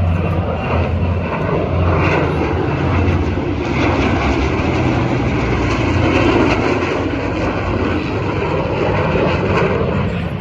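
Fixed-wing airplane engine running loud: a steady low drone with a rushing noise, swelling to its loudest about six seconds in.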